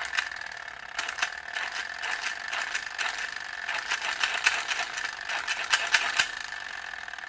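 The plastic propeller gear mechanism of a vintage Fisher-Price Adventure People toy helicopter whirring as the propeller is turned: a steady high whine with fast clicking over it. It runs smoothly, the sound of a mechanism in good working order.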